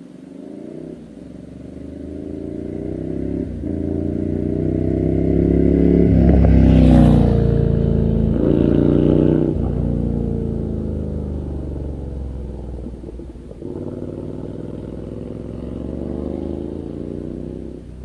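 Ducati Scrambler 800's air-cooled L-twin engine accelerating hard through the gears, its pitch climbing and dropping at each upshift. It swells to its loudest about seven seconds in, then fades. A second, shorter run of rising revs follows near the end.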